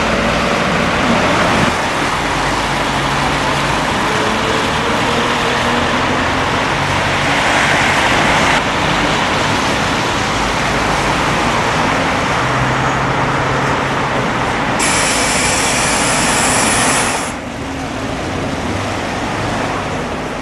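Traffic noise with vehicle engines running, and a high hiss lasting about two seconds near the end that cuts off suddenly.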